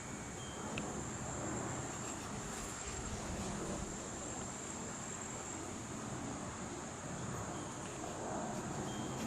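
Steady high-pitched insect trilling over low outdoor wind rumble, with a short high chirp just after the start.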